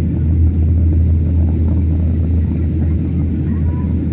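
Steady low drone of an airliner heard from inside the passenger cabin in flight: engine and airflow noise.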